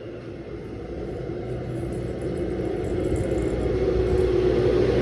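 Delta 16 kg washing machine running: a steady rumble and motor hum that grows steadily louder.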